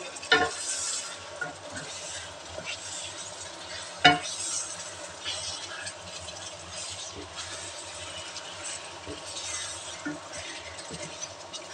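Wooden spatula stirring and scraping chicken pieces through sizzling oil and curry spices in a wok, the frying noise swelling with each stroke. Two sharp knocks on the pan, a small one just after the start and a louder one about four seconds in.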